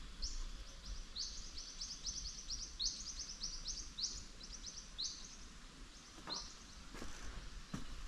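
A small bird singing a long series of rapid, high chirps in quick clusters for about six seconds. Near the end come a couple of footsteps on a gravel and leaf-litter track.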